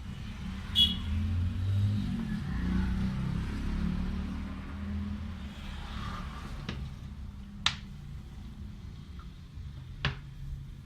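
A few short, sharp clicks or knocks, spread out over several seconds, over a low, steady rumble.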